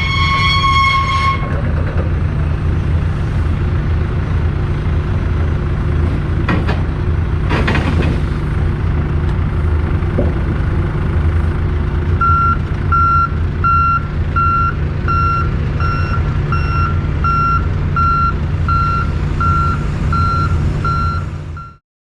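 Heavy truck engine idling with a steady low rumble, and a train horn's chord sounding briefly at the very start. About halfway through, a reversing alarm starts beeping, a bit under two beeps a second, until all sound cuts off suddenly near the end.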